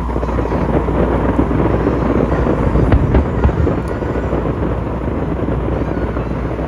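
Aerial fireworks going off in a dense, continuous crackle over a deep rumble, with a few sharper bangs about three seconds in.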